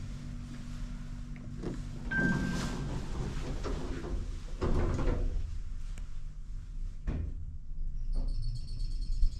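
Mitsubishi Elepaq-i elevator's sliding doors moving, with several short knocks and clunks over a low machine hum that stops about two seconds in.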